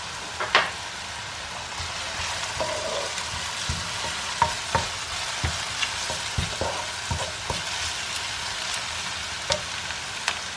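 Onion and garlic sizzling in clarified butter in a frying pan, with a steady hiss. A utensil stirring them clicks and taps against the pan about a dozen times.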